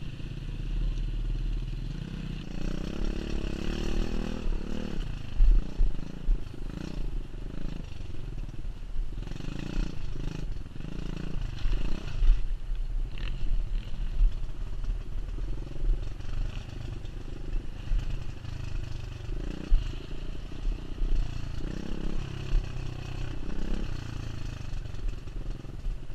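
Pit bike's 125cc engine revving up and down as it is ridden over rough ground, with wind buffeting the camera microphone and a few sharp knocks and rattles from bumps.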